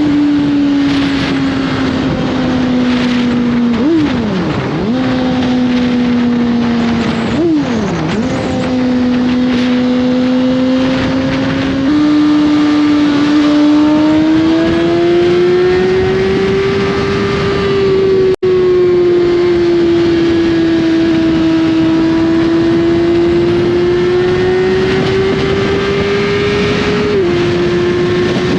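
2021 Suzuki GSX-R1000's inline-four engine through an Austin Racing slip-on exhaust, running under way at steady revs. Two brief sharp swings in engine pitch come about four and seven seconds in, then the revs step up and climb slowly before settling. The sound cuts out for an instant a little past halfway.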